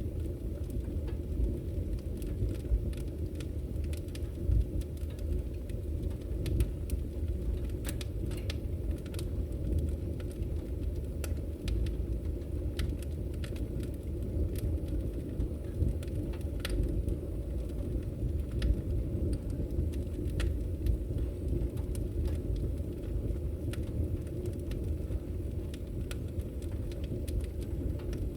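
Firewood burning: a steady low rumble of the fire with scattered sharp crackles and pops from the wood, several a second at irregular intervals.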